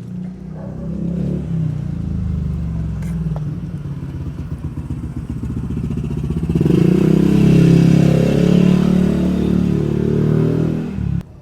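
A small vehicle engine running close by, growing louder about halfway through, then cutting off suddenly near the end.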